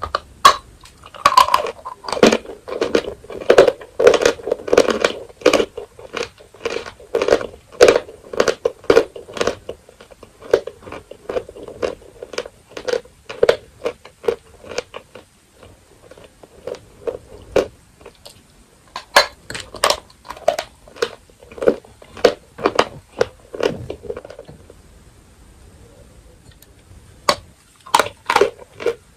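Dry edible chalk being bitten and chewed close to the microphone: a fast run of sharp, crisp crunches for the first ten seconds or so, then slower chewing crunches with brief pauses, and a few more bites near the end.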